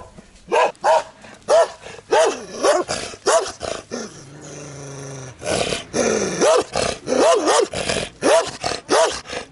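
A dog barking repeatedly, about two barks a second, with a break in the middle of the barking filled by a steady low hum.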